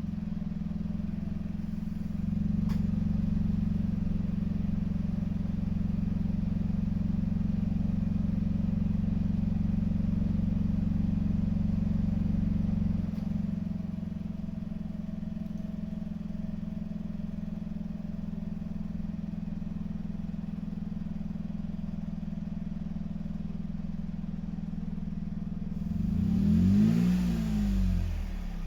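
Toyota Roomy's turbocharged 1.0-litre three-cylinder idling warm through a Kakimoto GTbox 06&S aftermarket muffler, a steady low exhaust note that drops a little in level about halfway through. Near the end the engine is revved once, its pitch rising and falling back.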